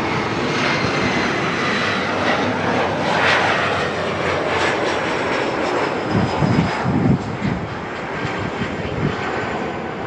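Jet airliner passing close by: a loud, steady engine rush with thin high whines that slowly fall in pitch.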